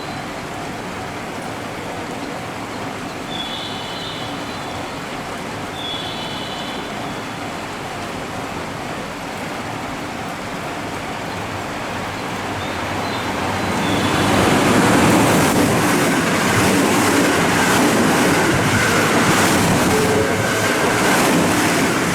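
A JR West Kyoto Line train going by. About 14 seconds in, a loud rushing sound rises, with a regular clickety-clack of wheels over rail joints, over a steady background hum.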